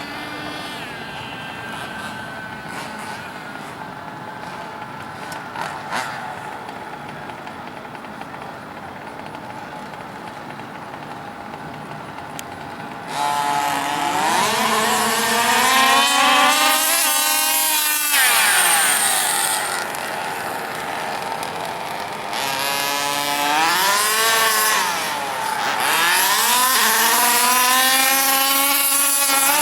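Small two-stroke engines of large-scale RC cars: a steady, quieter engine sound at first, then about halfway through much louder revving, the pitch climbing and falling again and again as the cars accelerate and pass at speed.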